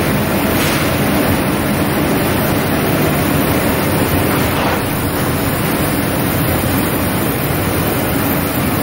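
Steady low rumble and hiss inside the car of an automated airport people-mover train, with a couple of faint brief hisses.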